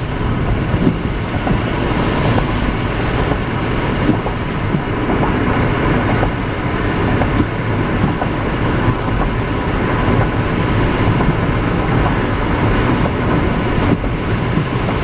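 Steady road and rain noise of a car driving through rain, heard from inside the car.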